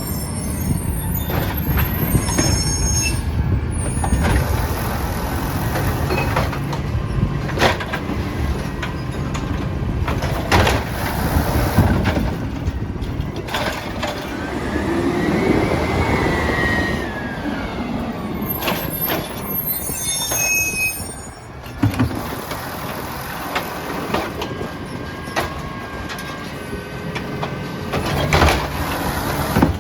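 Peterbilt 320 trash truck running, with several sharp clunks through it. High squeals come near the start and again about two-thirds of the way in, and a whine rises and falls near the middle.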